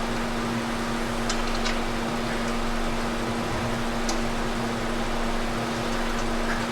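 Steady machine hum with a constant pitch, like a running fan or blower, with a few faint light clicks.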